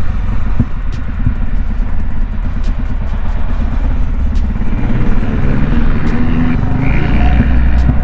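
Motocross motorcycle engines running.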